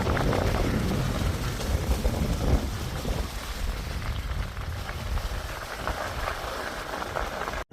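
Steady rushing noise of a bicycle on the move: tyres on the road and air rushing past the microphone, with a low rumble.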